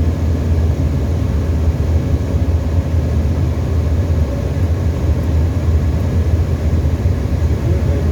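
Tecnam ultralight's piston engine and propeller droning steadily in flight, a constant low hum with no change in pitch.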